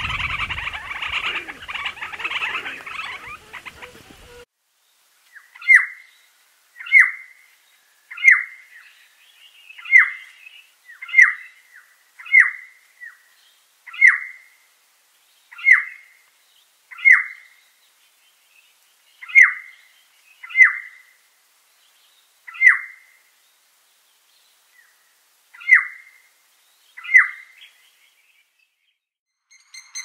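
A bird calling one short, sharp downslurred note over and over, about once every one to two seconds. Before that, a few seconds of busy bird chatter cut off abruptly.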